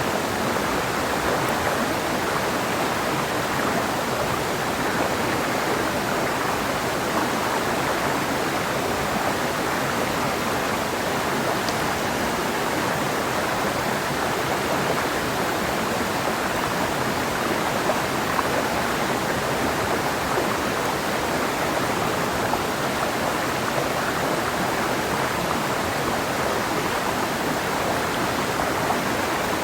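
Clear mountain river flowing over rocks, a steady rushing and babbling of water.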